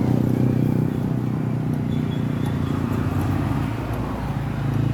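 A motor vehicle engine idling steadily, a constant low hum.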